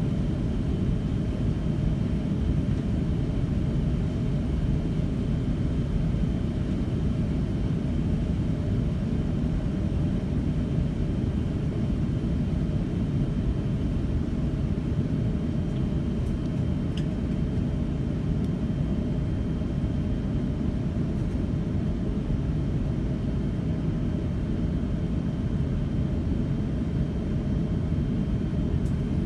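Steady low rumble inside the cabin of an Airbus A350-900 airliner on the ground, with a faint thin high tone running through it.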